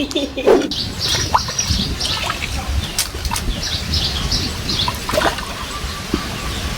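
Outdoor birdsong: many short chirps repeating over a low rumble, with a few sharp clicks.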